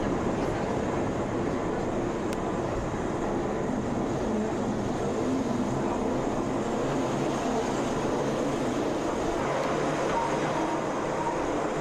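Train running, a steady, unbroken rumble and rattle.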